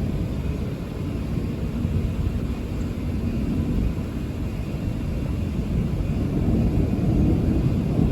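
Rolling thunder, a continuous deep rumble that swells louder near the end.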